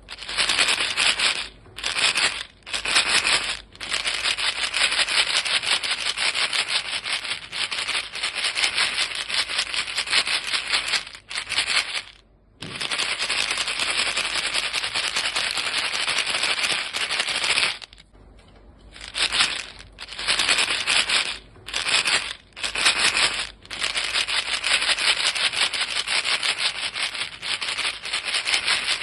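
A box of chewing gum being shaken, the pieces rattling fast inside the box. Several short bursts come with brief pauses near the start and again about two-thirds of the way through, and the rattling runs on steadily between them.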